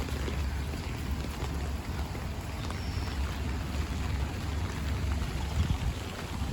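Steady rain pattering over a continuous low rumble, with a brief high chirp about three seconds in.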